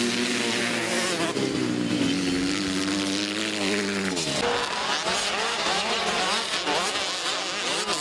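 Motocross bikes racing: first one steady engine drone, then from about four seconds in several engines revving at once, overlapping and rising and falling in pitch.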